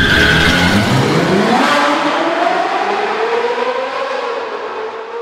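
Sports-car engine sound effect under a logo animation: a loud rush as the car comes in, then the engine revving up, its pitch climbing steadily over a few seconds as the level slowly eases.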